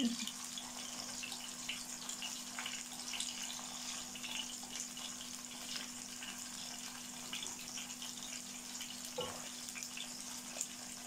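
Kofta patties frying in shallow oil in a pan: a steady sizzle with scattered small crackles and pops.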